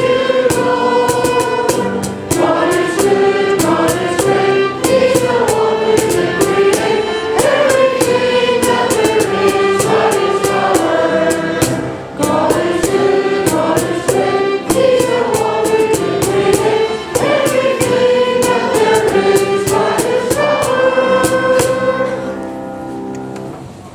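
Church choir singing with rhythmic accompaniment, ending on a held chord that fades away near the end.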